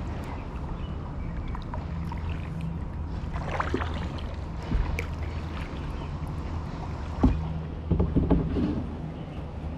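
Kayak paddle strokes in the water: irregular splashes and drips, a few around the middle and a cluster near the end, the sharpest about three-quarters of the way in, over a steady low hum.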